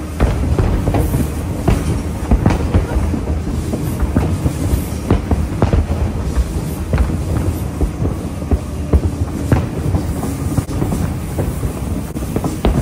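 A train running along the track: a steady low rumble with frequent irregular clicks and clacks from the wheels on the rails.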